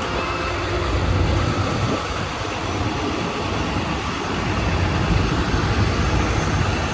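Steady road traffic noise from passing vehicles, with a strong low rumble.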